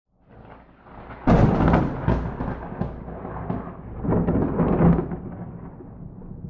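Thunder with no rain: a sharp crack of a lightning strike about a second in, then rolling rumbles that swell loud again about four seconds in and fade toward the end.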